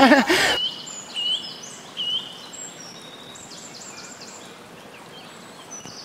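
Birds chirping in short, high notes, some of them quick rising calls, over a faint steady background hiss.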